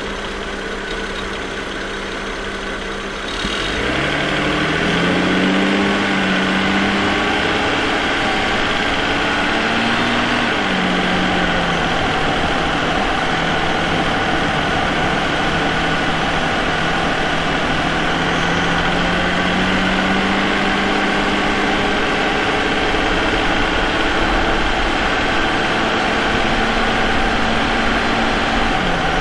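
Vauxhall Omega's 3.2-litre 24-valve V6, picked up by a microphone in the engine bay beside its K&N air filter. It runs quietly for the first few seconds, then pulls harder about three and a half seconds in, its pitch climbing, dipping and climbing again before settling lower around eleven seconds in and running steadily at a cruise.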